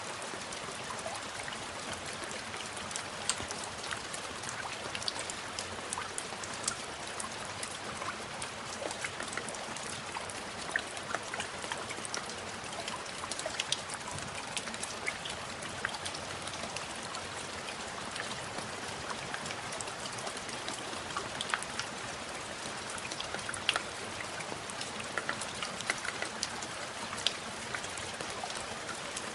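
Steady rain falling, with many small drops pattering close by over an even hiss.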